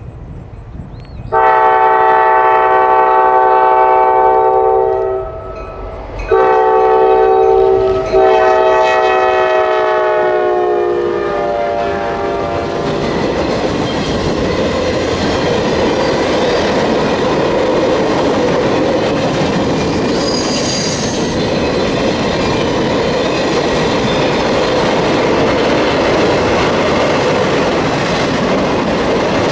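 Diesel freight locomotive's multi-chime air horn sounding two blasts, the second longer and dropping in pitch near its end as the locomotive passes. The freight cars then roll by with a steady clickety-clack of wheels on rail joints, and a brief wheel squeal about 20 seconds in.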